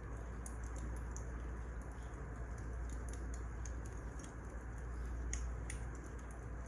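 Wood fire crackling: a steady low rumble with scattered irregular snaps and pops, two sharper ones about five and a half seconds in.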